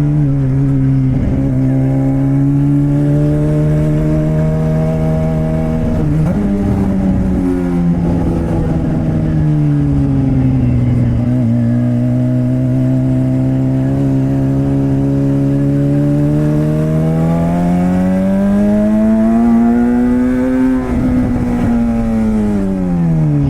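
Straight-piped Suzuki GSX-R600 (K7) inline-four without a catalytic converter, running under way. The engine note holds fairly level with a few brief breaks, climbs slowly, then drops steeply near the end as the bike slows.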